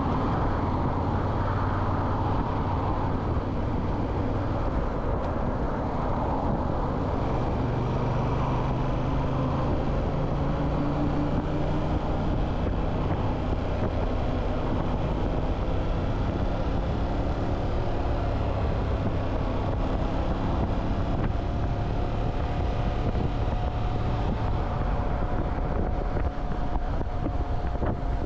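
Motorcycle engine running steadily under way, its pitch drifting up and down a little with speed, over a constant rush of wind noise.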